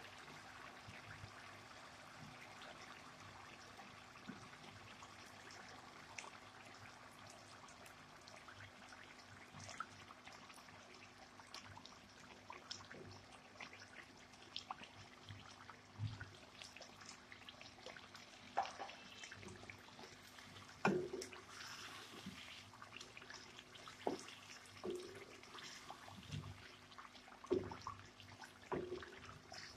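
Masala frying faintly in oil in a nonstick kadai as raw chicken pieces go in and are stirred with a wooden spoon. Scattered knocks and scrapes of the spoon against the pan grow more frequent and louder in the second half.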